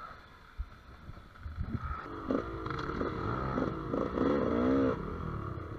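Two-stroke GasGas EC200 enduro motorcycle engine revving under the rider, its pitch rising and falling. It gets louder about two seconds in, after a few low knocks.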